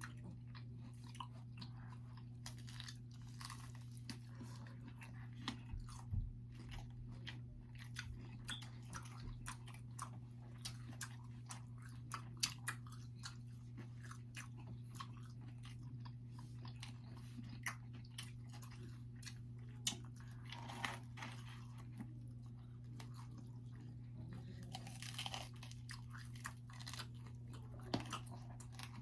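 Close-up chewing and biting into pizza, with many short crunches of crust and wet mouth sounds, over a steady low hum.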